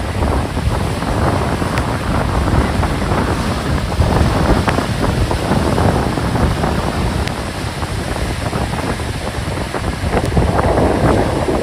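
Strong gale-force wind buffeting the microphone over the rush of rough sea waves breaking on the shore.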